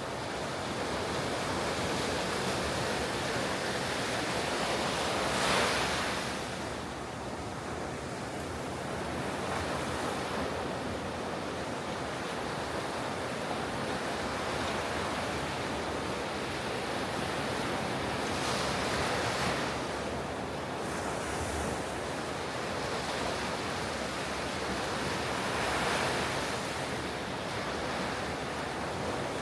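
Ocean surf washing onto a beach in a continuous roar, with waves breaking and surging louder about five seconds in, near the middle and again near the end. Wind buffets the microphone.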